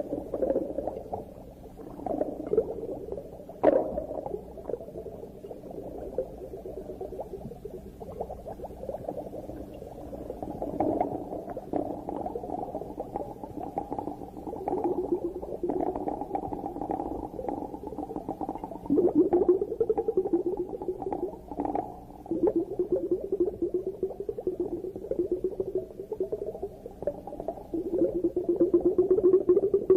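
Underwater bubbling and gurgling, rising and falling in surges. A sharp click comes about four seconds in.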